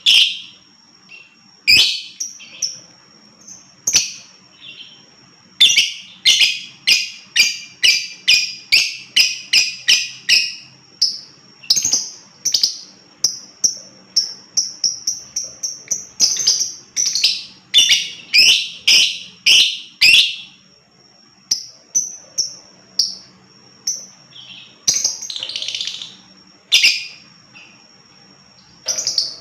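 Lovebird chirping: runs of sharp, high chirps, several a second, broken by short pauses.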